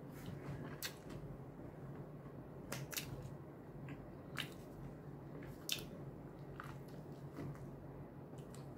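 Close-miked mouth sounds of a person chewing food: faint chewing with wet smacks and clicks every second or so, over a faint steady hum.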